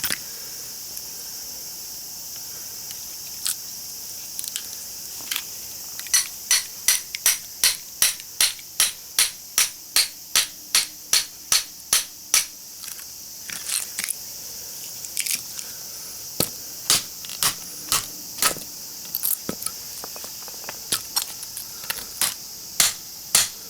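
Hammer striking a cold chisel against a small transformer's steel core, a few light taps at first and then a steady run of sharp blows about two a second from about six seconds in.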